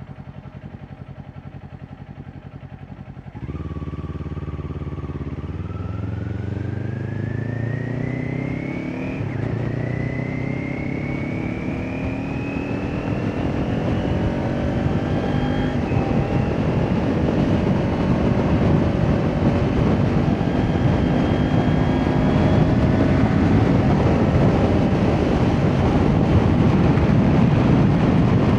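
Kawasaki Ninja 400's parallel-twin engine through an Akrapovič exhaust, ticking over steadily and then, about three seconds in, pulling away under throttle with its pitch rising. There is a gear change about nine seconds in, after which it keeps accelerating as wind and road noise build up.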